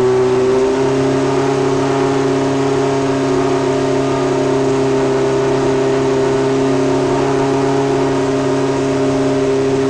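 Historic Formula 1 race-car engine running at high, held revs, keeping one steady pitch with no rise or fall.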